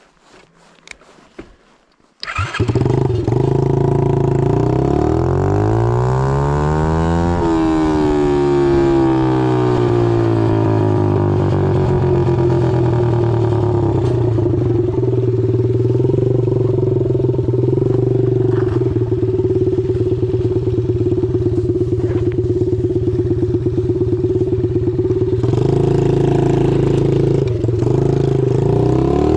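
Pit bike's single-cylinder engine running with no muffler, extremely loud through the open exhaust. It fires up about two seconds in, revs up and back down, runs steadily, then revs again near the end.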